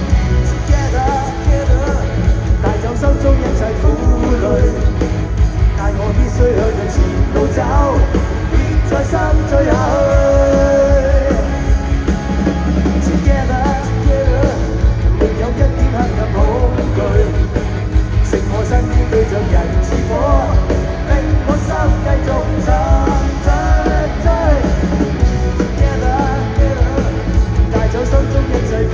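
Rock band playing a song with a lead vocal singing over drums, bass and guitars.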